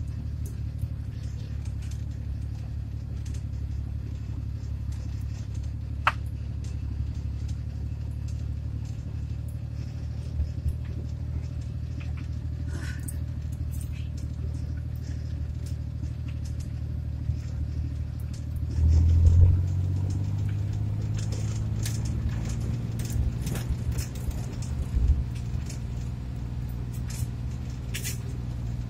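Engine and road noise of a small van heard from inside its cab while driving: a steady low drone with scattered small rattles and clicks. About two-thirds of the way through, the engine grows louder and its note shifts.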